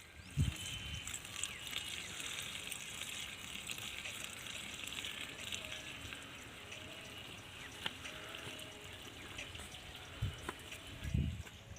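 Diesel being poured into the fuel tank of an irrigation pump engine: a faint, steady trickle of liquid, with dull knocks about half a second in and twice near the end.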